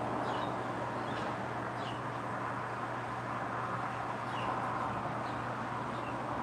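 Steady background noise with a low hum, and a few short, faint bird chirps scattered through it.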